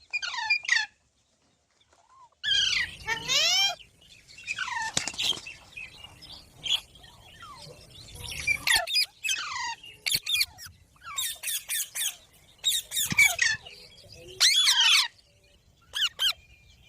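Pet green parrot calling in a string of short squawks, many of them sliding down in pitch, coming in quick clusters after a brief silent gap near the start.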